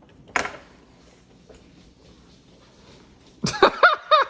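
A single short cough about half a second in. Near the end comes a burst of a child's pitched vocal noises sliding up and down, a reaction to tasting a snack.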